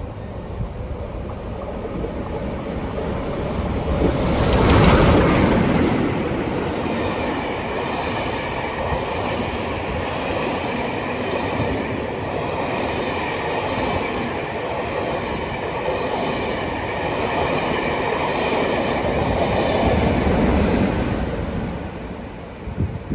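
A train passing at speed: wheels rushing on the rails, loudest about five seconds in as the front goes by. A long steady run follows with a faint high ringing tone; it swells again near twenty seconds and dies away just before the end.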